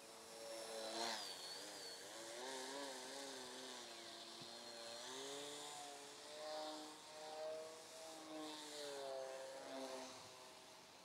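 Foam Nutball RC plane's motor and propeller buzzing as it flies, the pitch sliding up and down with throttle and passes and swelling louder several times.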